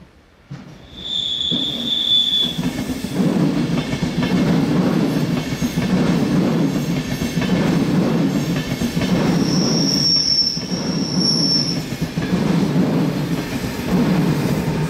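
Train wheels rolling on rails with a heavy low rumble that starts abruptly about half a second in, and wheel squeal on the curves: a short high squeal about a second in, then a higher one around ten seconds in.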